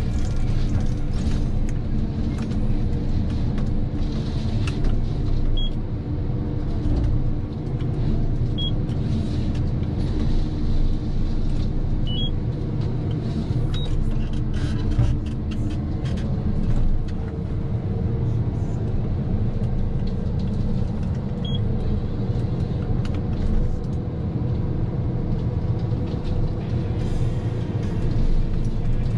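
Heavy forestry machine's engine running steadily under load, with scattered short clicks and knocks.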